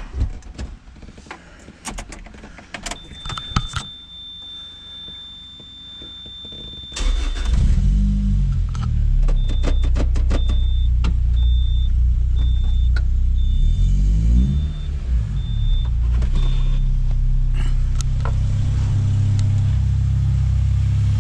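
A 2005 Lotus Elise's Toyota 1.8-litre four-cylinder is started from cold after sitting for days: clicks and a steady high warning tone, then about seven seconds in the engine starts and runs on steadily. A high warning beep repeats for several seconds, and the revs briefly rise and fall around fourteen seconds in.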